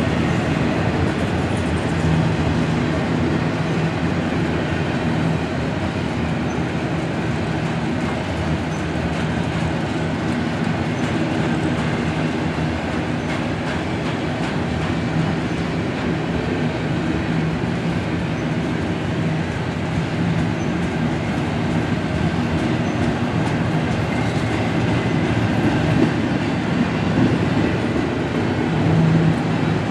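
Double-stack container train's well cars rolling past: a steady noise of steel wheels on the rails, with no break.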